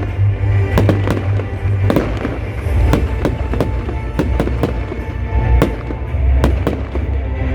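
New Year's Eve fireworks going off: sharp, irregular bangs about once a second over a continuous low rumble and crackle of distant explosions, with music playing underneath.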